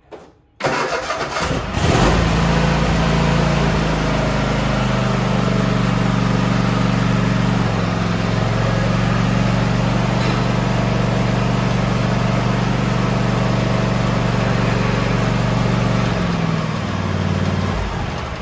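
Troy-Bilt Mustang Pivot 54 zero-turn mower engine cranked by its electric starter, catching about two seconds in. It runs steadily after its spring tune-up, then is shut off and winds down near the end.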